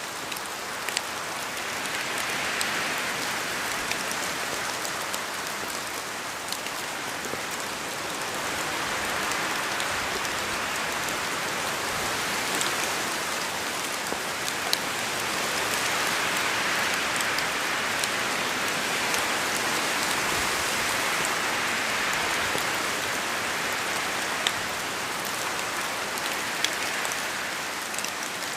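Steady rain falling, a dense even hiss with scattered sharper drops ticking on a surface, swelling and easing gently in intensity.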